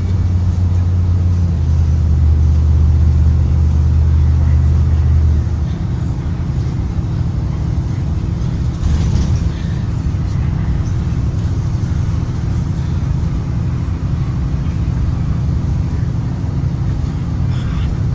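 Blue Bird Vision school bus engine and road rumble while driving. The steady engine drone shifts pitch about a second and a half in, then eases into a rougher rumble about five seconds in, as with a gear change or the driver backing off the throttle.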